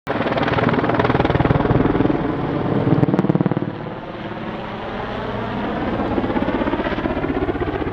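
Super Puma twin-turbine helicopter in display flight, its main rotor beating rapidly with a heavy thudding chop. It is loudest for the first few seconds, then falls off sharply and swells a little again as the helicopter moves away.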